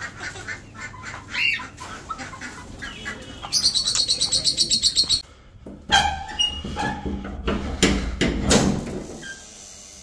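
Caged birds in an aviary calling: a quick run of high, evenly spaced chirps about four seconds in, then several louder separate calls and squawks.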